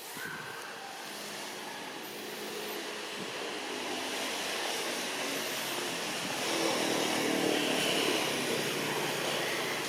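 A motor vehicle's engine running with a steady hum, growing gradually louder to its loudest about seven seconds in, then easing off slightly, like a vehicle approaching and passing.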